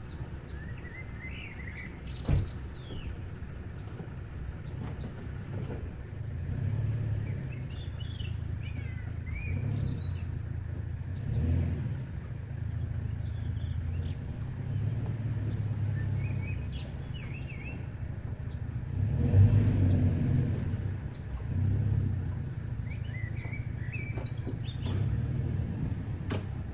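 A low, uneven rumble that swells and fades, with small birds chirping now and then above it and a single sharp knock about two seconds in.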